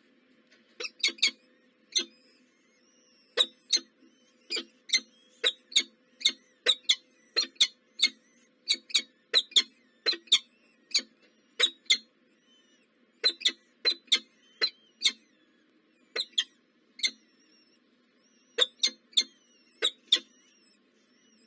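Small birds at a nest chirping: many short, sharp high chirps in quick runs with brief pauses between them, over a faint low hum.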